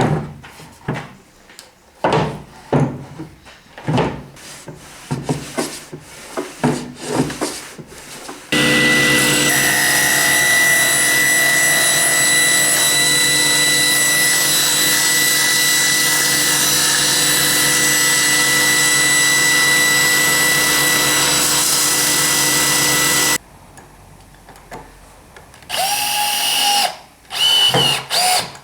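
Clicks and knocks of parts being handled, then an electric power tool running steadily for about fifteen seconds before cutting off abruptly. Near the end come two short bursts of the motor.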